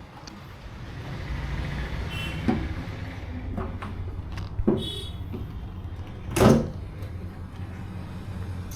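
Workshop background hum with a few separate knocks and clunks, as from parts and tools being handled; the loudest clunk comes about six and a half seconds in.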